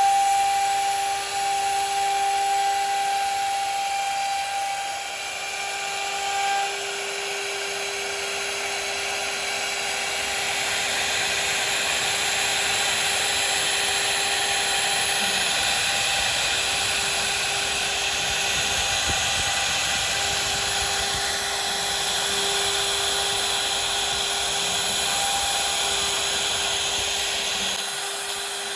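CNC router spindle running with a steady high whine over a constant hiss as the bit cuts into wood.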